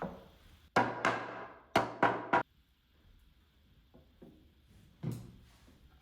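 Hard wooden knocks during woodworking: a quick run of about five sharp strikes, each ringing briefly, then a single knock a few seconds later.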